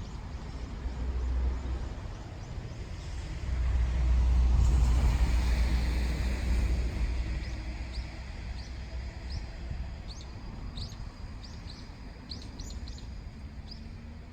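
A vehicle goes by with a low rumble that swells for a few seconds and fades away, followed by small birds chirping in quick short notes.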